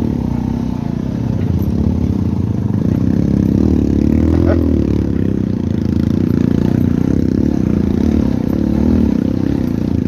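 Motorcycle engine running under load on a rough, muddy dirt track, its revs rising and falling as the rider works the throttle, with rattling from the bike.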